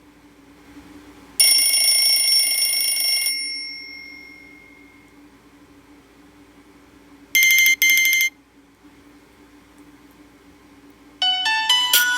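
Nokia E63 phone speaker playing its preset tones one after another: a bright electronic chime about a second and a half in that holds for about two seconds and fades, a quick double beep around seven seconds in, then a melodic ringtone starting near the end.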